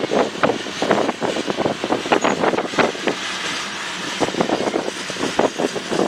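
Railway cars rolling past, their wheels clattering over the rails in a rapid, irregular run of clacks and knocks.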